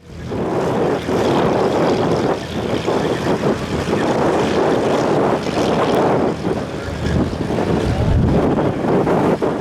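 Propeller airplane's engine and propeller running, with gusty wind rumbling irregularly on the microphone. The sound fades in at the start and stays loud and uneven throughout.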